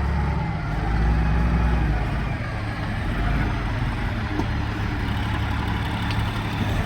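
A vehicle engine running steadily at a low pitch, its note shifting about half a second in.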